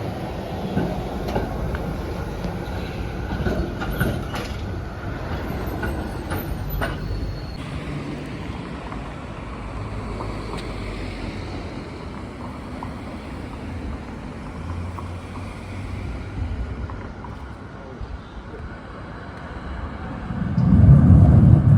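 Tram running along street track, with a run of sharp clicks and knocks about four to seven seconds in; a loud low rumble sets in near the end.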